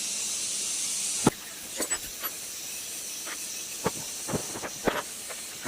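A steady hiss that cuts off suddenly about a second in, followed by a scatter of light clicks and taps of hard parts being handled.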